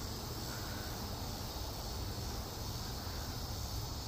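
Steady, high chorus of crickets chirring, with a low rumble underneath.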